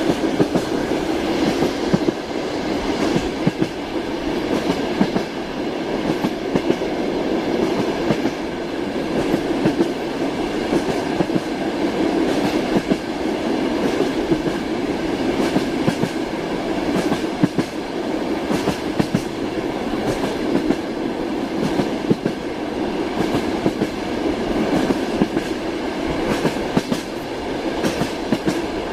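Train wheels clattering over rail joints: a steady rumble with repeated clicks, heard continuously.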